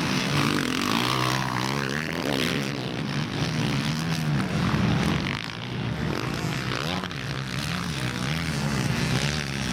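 Engines of several quad bikes running around a motocross track, their pitch rising and falling over and over as they rev through gear changes and corners.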